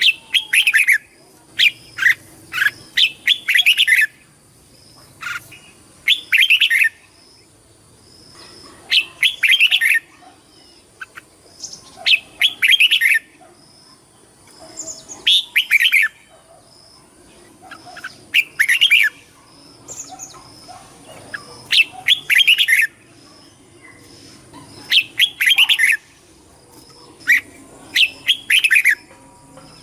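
Red-whiskered bulbul singing: short, bright phrases of quick notes, repeated about every three seconds.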